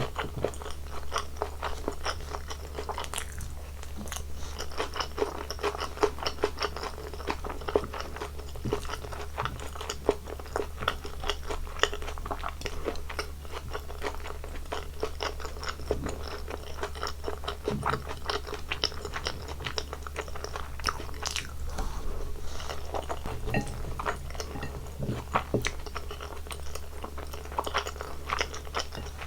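Close-miked eating sounds: a person chewing and biting food, with many small irregular wet clicks and crunches, over a steady low hum.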